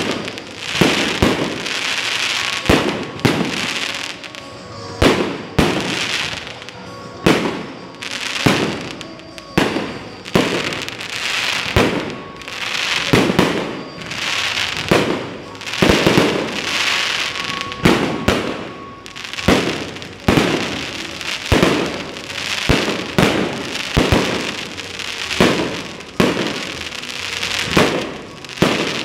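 Aerial fireworks firing in rapid succession: a sharp bang about once a second, each followed by a crackling spray of sparks.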